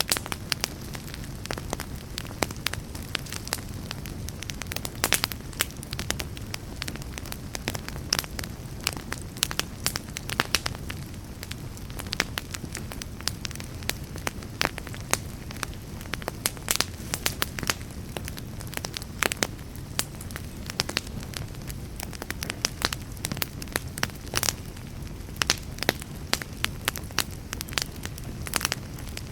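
A burning fire crackling, with frequent sharp irregular pops over a steady low rumble.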